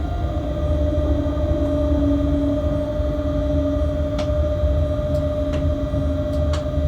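Freight train locomotive running, heard from inside its cab: a steady low rumble with a constant two-tone hum, and a few sharp ticks in the second half.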